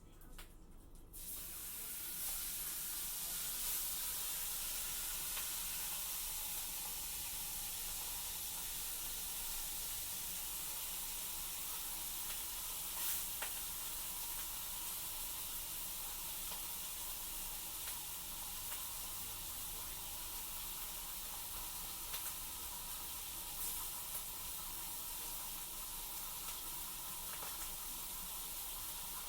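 Food sizzling in a frying pan: a steady hiss that starts about a second in, with a few brief crackles.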